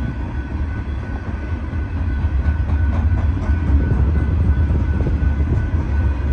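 Loaded freight cars of a Norfolk Southern sand train rolling past slowly, a steady low rumble that swells a little about two seconds in. A faint, steady high whine runs under it.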